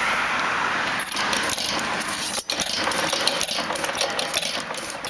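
Circa-1895 Pierce inverted 3/4 hp hit-and-miss engine being turned over in an attempt to start it, with irregular mechanical clicks and rattles; it has not yet caught and run.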